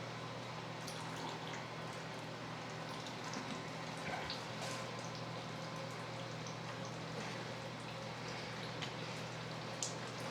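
Faint scattered clicks and small taps from handling shock-absorber parts at the bench, over a steady low hum.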